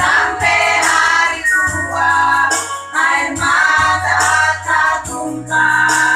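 Women's choir singing a song in phrases over an instrumental backing, with a held bass note under each phrase.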